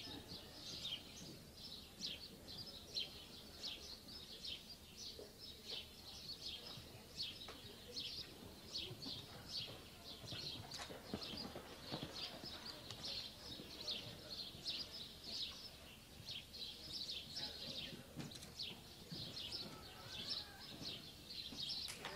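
Small birds chirping without a break, several high chirps a second, over faint background voices.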